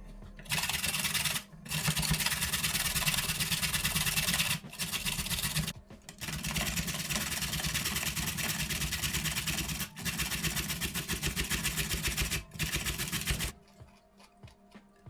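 Small electric motor of a kitchen appliance running in several long spurts with short pauses between them, a dense whirring noise that stops near the end.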